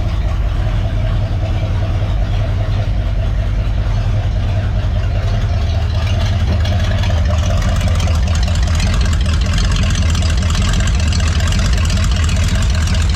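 V8 engine swapped into a 1964 Ford Econoline van, idling steadily.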